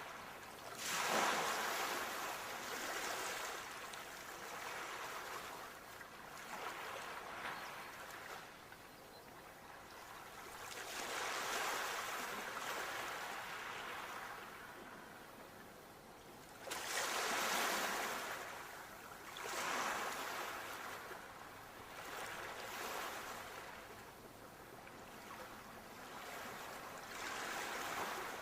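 Sea waves breaking and washing up the shore, in irregular swells every few seconds. The biggest breaks come about a second in and again around two-thirds of the way through.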